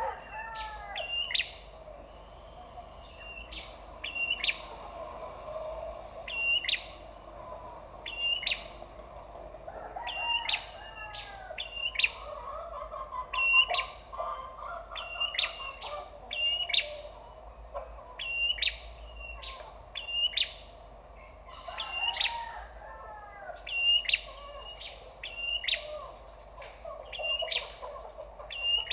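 Prenjak (prinia) song: sharp, high-pitched chirps in short repeated bursts, a few calls every couple of seconds. Other birds call lower underneath.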